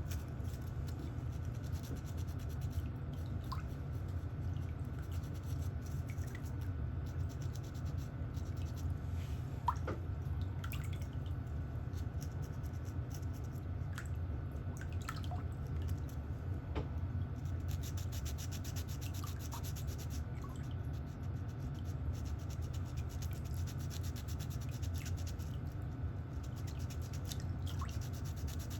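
Nail-care tools scraping and rubbing on thickened, fungus-affected toenails, with scattered small clicks, over a steady low hum.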